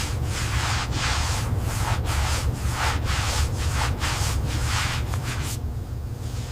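Repeated abrasive rubbing strokes on a hard surface, about two a second, over a steady low hum.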